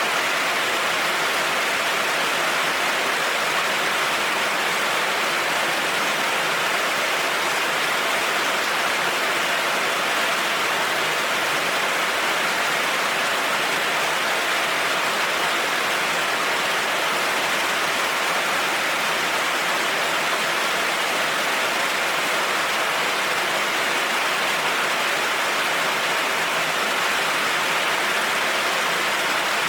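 Heavy rain falling steadily, an even hiss of rain on the ground with no thunder.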